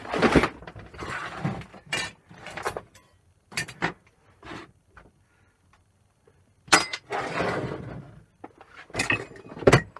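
Scrap parts clattering, rattling and knocking in a tub as they are rummaged through and handled, in irregular bursts with a short pause about halfway through and a sharp knock just after it.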